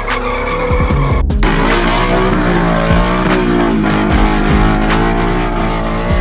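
Background music over a car engine revving, its pitch rising and falling, with tyre squeal.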